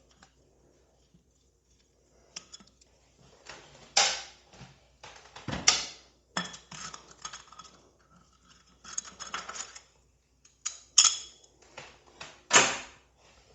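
Metal hand tools and parts clinking and clattering as they are handled and set down, in an irregular string of separate clanks after about two seconds of near quiet.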